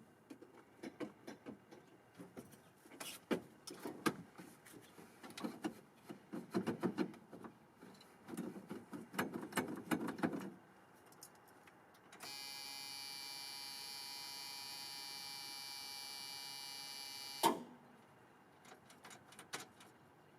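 Irregular clicks and rattles of handling, then a steady electric buzz for about five seconds that cuts off with a sharp click, typical of a truck cab's ignition warning buzzer.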